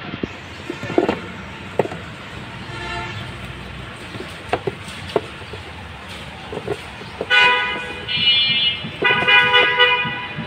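Horn blasts: three held, loud toots one after another in the second half, after several seconds of low background noise with scattered knocks.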